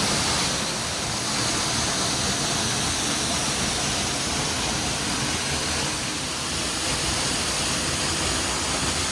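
Ponytail Falls plunging, heard up close from behind the curtain of water: a steady, even rush of falling water.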